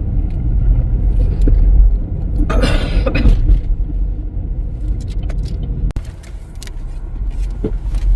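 A car driving, with a steady low rumble of engine and road noise and a louder rushing swell about two and a half seconds in.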